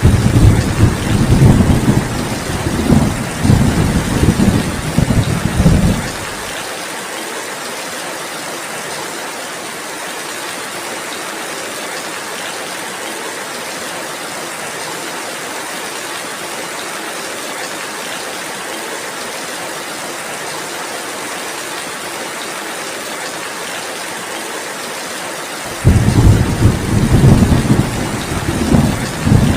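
Steady rain falling, with low rolling thunder: a long rumble for the first six seconds or so and another starting near the end.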